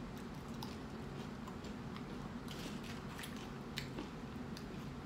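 Chewing and crunching tortilla chips: scattered small crisp crunches at irregular intervals over a steady low hum.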